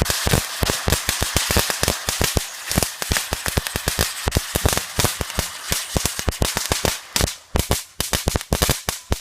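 A string of firecrackers going off in a rapid, irregular run of sharp pops that thins out over the last two seconds.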